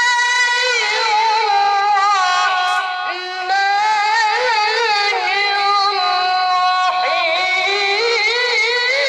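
A child reciting the Quran in the melodic tilawah style: one high, clear voice holding long, ornamented notes that waver and turn, with a brief drop about three seconds in.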